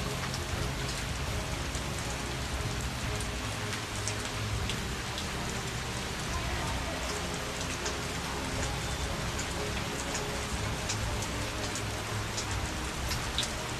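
Heavy rain falling steadily, with scattered sharp ticks of individual drops striking a surface.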